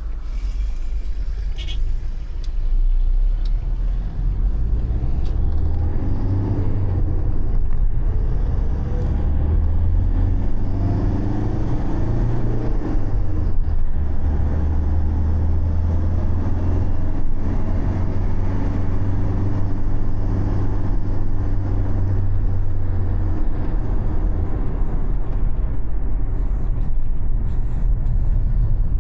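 Motor vehicle engine and road rumble heard from inside the vehicle, the engine pitch rising and falling as it speeds up and eases off. A few light clicks sound near the start.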